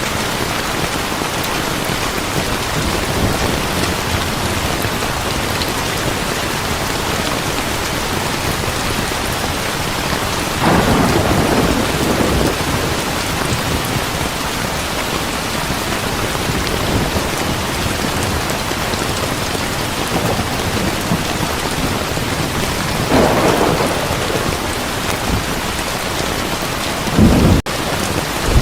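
Heavy rain falling steadily, with rolls of thunder swelling up three times: about ten seconds in, past twenty seconds, and a short sharp one near the end.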